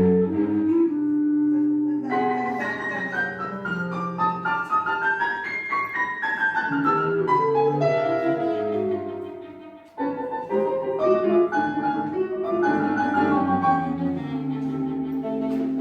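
Modern classical chamber music for piano and bowed strings, including cello: quick, angular runs of short notes. The music dies away briefly just before about ten seconds in, then a new passage starts suddenly.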